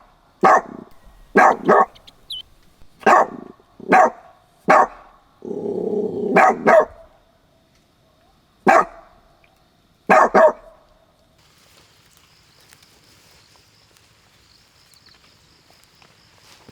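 An animal barking, dog-like: about a dozen short, sharp barks in irregular twos and singles, with a rough, lower sound running into a pair of barks around six seconds in. After about eleven seconds the barking stops, leaving a faint, high, pulsing trill.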